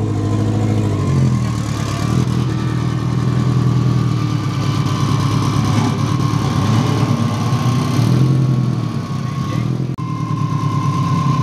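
A car engine running at idle, its pitch rising and falling a few times, with a thin steady whine above it.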